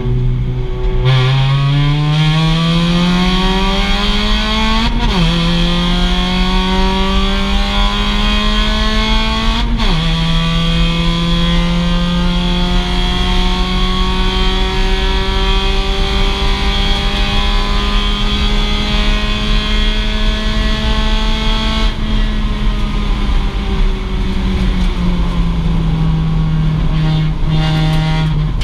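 A 2006 Mazda MX-5's stock four-cylinder engine accelerating hard, with two quick upshifts about five seconds apart. It then pulls slowly up the rev range for a long stretch, and the revs drop back near the end as the driver lifts. A steady rush of road and wind noise runs under it.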